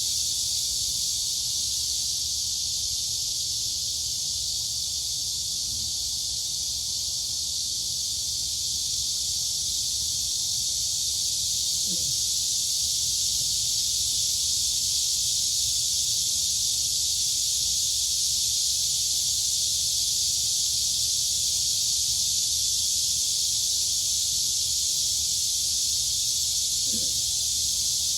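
A dense, steady chorus of crickets and cicadas, a continuous high-pitched shrill hiss with no breaks.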